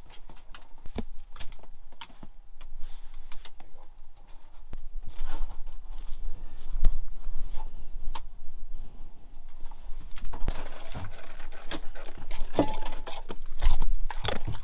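A dog eating from his bowl: many irregular clicks and ticks, with light metallic jingling.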